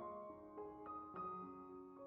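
Background music: slow, soft piano, single notes struck a few times a second and left to ring.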